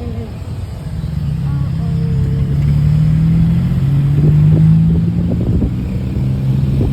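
Vehicle engine running and picking up speed, its note rising and growing louder over the first few seconds, then easing off.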